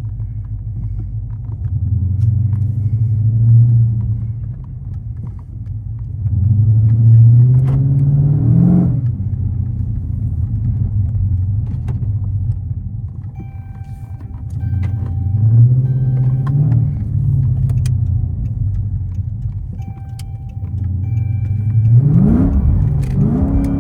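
Dodge Charger Super Bee's 392 (6.4-litre) Hemi V8 running while driving: a steady low drone, with the engine note climbing three times as the car accelerates, the strongest pulls about seven to nine seconds in and near the end.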